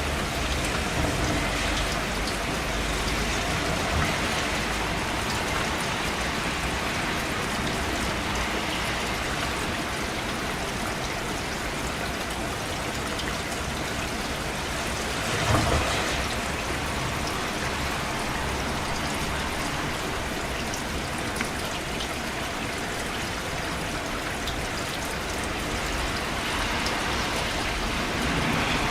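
Steady rain falling, an even hiss of many drops, with one brief louder swell about halfway through.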